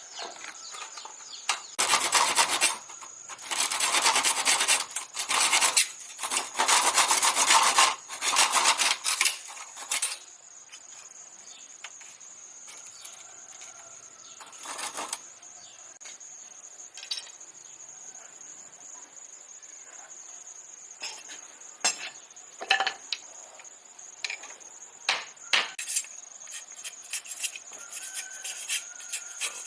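Several loud rasping, scraping strokes in the first third, then scattered light taps and clicks, over a steady high insect-like drone.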